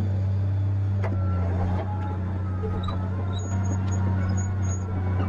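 Tigercat 870C feller buncher's diesel engine running steadily with a deep, even hum, with a few light clicks over it.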